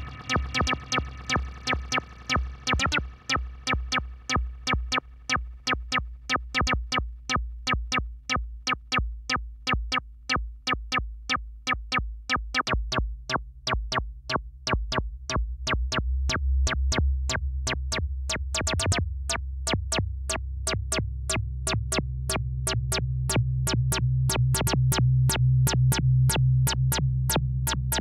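Malekko Manther monophonic analog synthesizer playing a fast, evenly repeating sequence, with each note starting sharply. After about three seconds the bright upper tones fall away. From about halfway a deep sustained bass tone swells up under the notes and grows louder toward the end.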